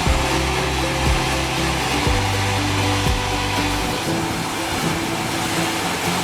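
Sawmill saw running through a meranti log: a loud, steady machine noise with a knock about once a second that stops about four seconds in, when the low hum drops away.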